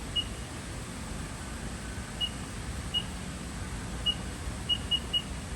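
Seven short, high electronic beeps from a Haas CNC control panel, irregularly spaced and bunched closer together near the end. A steady low machine hum runs underneath.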